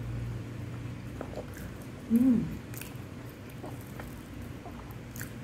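Close-up mouth sounds of a person eating by hand: chewing and small wet lip smacks. About two seconds in comes a short hum that rises and falls in pitch, the loudest sound here.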